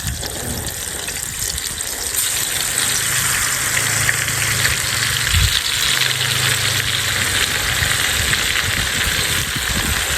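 Tempeh frying in hot cooking oil: a steady, loud sizzle that swells over the first two seconds and then holds.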